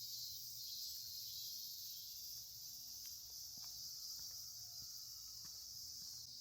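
A steady, high-pitched chorus of insects chirring, with a few faint ticks over it from about halfway through.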